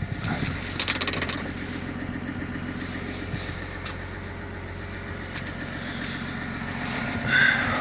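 Caterpillar 320 long-reach excavator's diesel engine running steadily, with scraping and clanking about a second in and a short, louder high squeal near the end.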